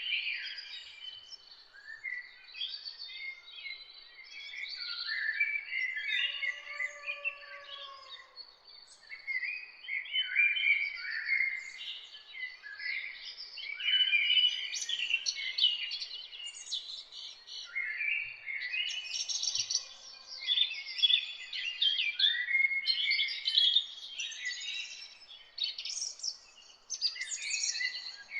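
A chorus of several songbirds singing and chirping at once: quick, high, overlapping phrases and trills with no break. A single lower, drawn-out call comes about seven seconds in.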